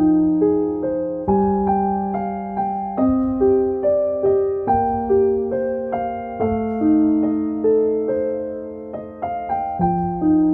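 Gentle background piano music: single notes struck about twice a second over sustained bass notes that change every couple of seconds.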